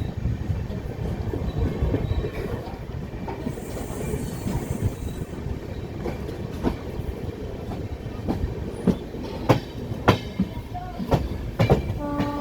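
Passenger train running on the rails: a steady low rumble of wheels on track with sharp clicks over the rail joints, which grow louder and more frequent in the second half as the train gathers speed.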